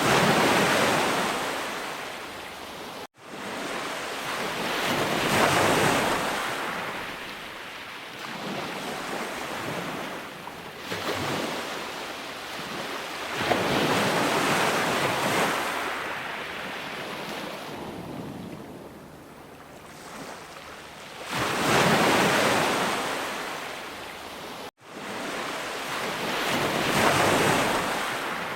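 Ocean waves breaking on a shore, the wash swelling and fading in repeated surges every several seconds. The sound cuts out for an instant twice.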